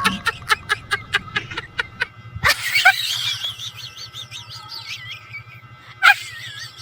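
A bird chirping in a quick series of short rising notes, about five a second, then a louder call and a wavering, warbling song from about two and a half seconds in, with one short sharp call near the end.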